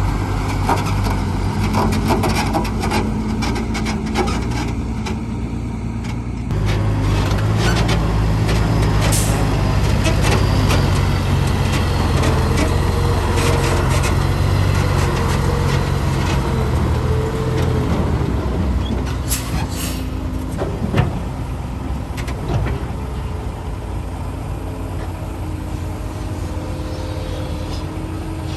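Heavy diesel earthmoving machinery at work, a Doosan DX220 excavator with a dump truck: steady engine drone with scattered clanks and knocks. The engine note steps up suddenly about six seconds in, and there is a sharp knock about two-thirds of the way through.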